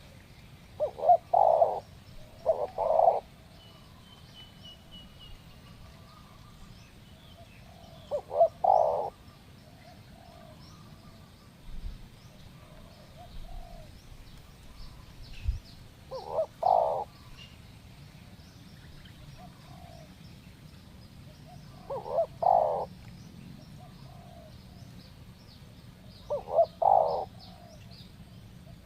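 Spotted doves cooing: a near bird gives short phrases of two or three coos every five or six seconds, with fainter coos from another dove in between. Small birds chirp faintly in the background.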